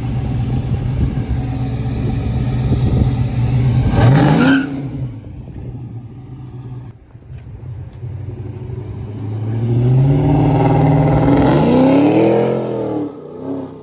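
Car or truck engine running, revving up briefly about four seconds in, then accelerating hard near the end, its pitch rising and then falling as it pulls away and fades.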